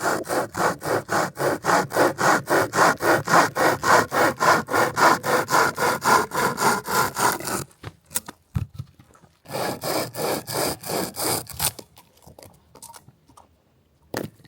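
Hand saw cutting through wood with quick, even back-and-forth strokes, about four or five a second. It stops about halfway through, saws again briefly a couple of seconds later, then leaves only a few faint knocks.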